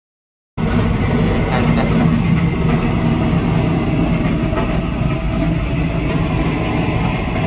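KTM Express Rakyat passenger train running, a loud steady rumble with rattle and hiss above it, cutting in abruptly about half a second in.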